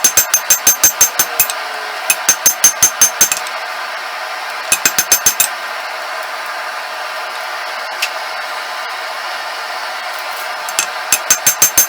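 Hand hammer striking hot steel on an anvil, drawing out a Damascus bar: quick runs of about five ringing blows a second, broken by short pauses, with a single blow in the middle. A steady rushing noise runs underneath.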